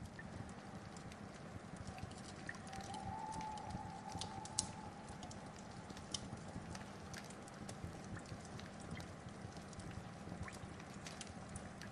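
Wood fire crackling: a steady low hiss with scattered sharp pops, one louder pop about four and a half seconds in.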